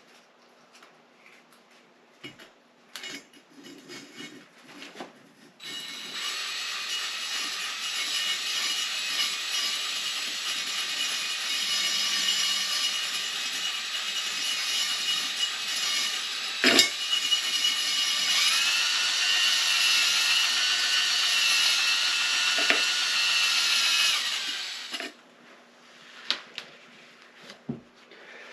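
Drill spinning a cylinder hone in the cylinder bore of a 1973 Honda CB450 engine: a steady high whine with the stones scraping, starting about six seconds in and stopping near the end, its pitch shifting partway through, with a sharp knock in the middle. The hone is working the last rust out of the bore. A few clicks and knocks of handling come before and after.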